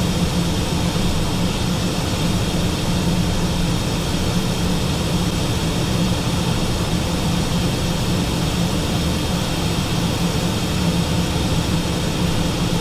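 Steady cockpit noise of a Learjet 45XR in flight: an even rush of airflow with a low hum underneath, holding constant.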